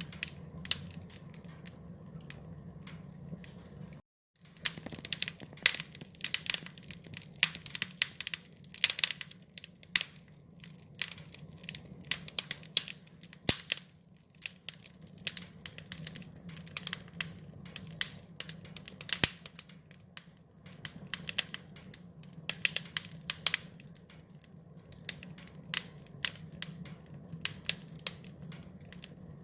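Wood fire crackling, with many irregular sharp pops and snaps over a steady low hum. The sound cuts out briefly about four seconds in.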